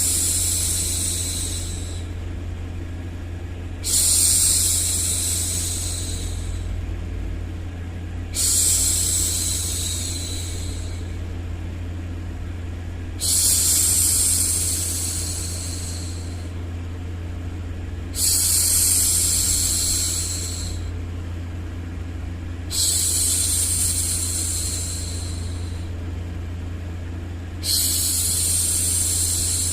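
A woman's voice shushing, a long 'shhh' repeated every four to five seconds, each one starting suddenly and fading over two to three seconds. Under it runs a steady low hum.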